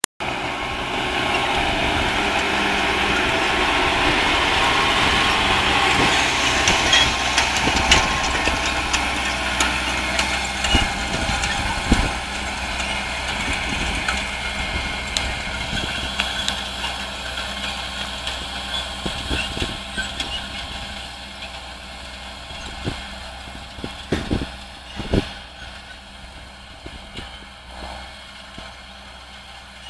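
John Deere 6534 tractor's diesel engine running steadily under load while row-cultivating, with scattered knocks and rattles. The sound fades over the second half as the tractor moves away.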